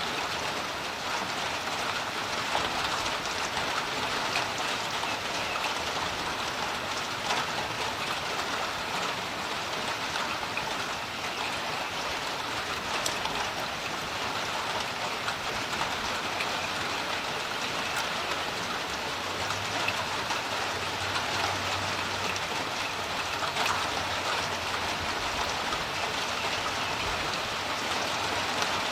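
Steady rain falling on a creek, a dense, even patter of many drops striking the water.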